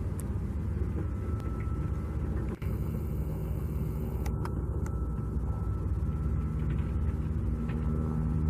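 Steady low rumble of running engines, with a faint high whine for about a second near the middle.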